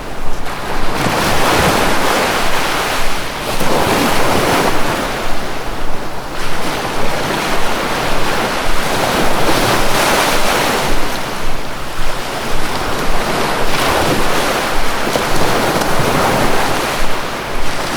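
Sea waves washing in, a continuous rush of surf that swells and eases every couple of seconds.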